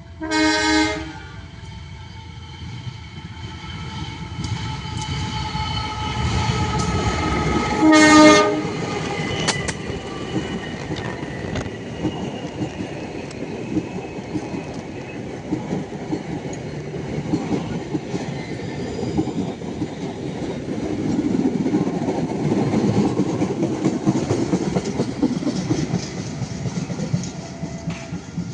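Train horn sounding a short blast at the start and a louder one about eight seconds in. Between and after the blasts the train passes with a steady rumble and wheel clatter that swells toward the end.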